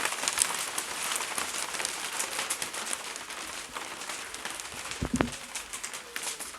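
Rain falling on a roof overhead: a steady patter with many sharp individual drops. There is a brief low thump about five seconds in.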